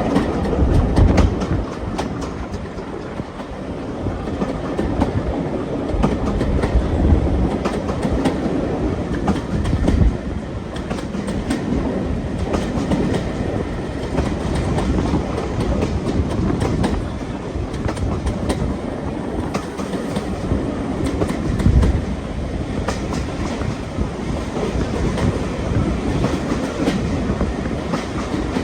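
A railway carriage on the move: a steady running rumble, with the wheels clicking over rail joints.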